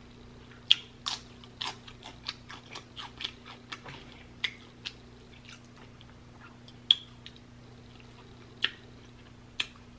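Close-miked chewing of sticky barbecue-sauced beef ribs: a quick run of sharp mouth clicks and smacks in the first few seconds, then a few louder ones spread apart.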